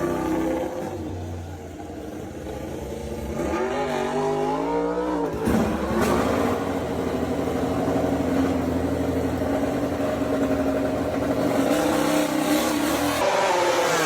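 MotoGP racing motorcycle engine revving: the pitch climbs, breaks off about five and a half seconds in, then holds high and rises again near the end.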